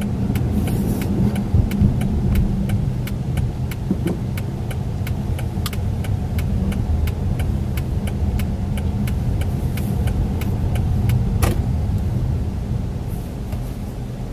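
Car cabin with steady engine and road rumble, and the turn-signal indicator clicking evenly about three times a second for a left turn. A single louder knock about eleven seconds in.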